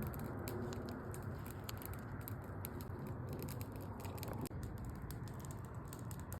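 Beef cooking over a campfire: a steady sizzling hiss dotted with many quick crackling pops.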